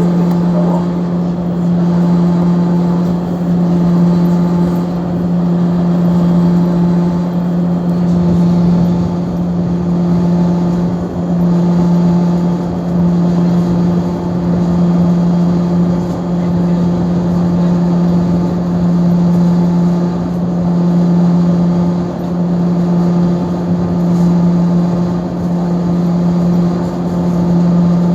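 Scania diesel engine of a Rio–Niterói ferry running at steady speed: a loud, even drone whose level swells and fades slowly about every two seconds.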